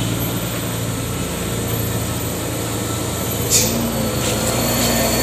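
Heavy diesel truck engines running steadily, with a small change in engine pitch about a second in and again near four seconds, and a brief hiss about three and a half seconds in.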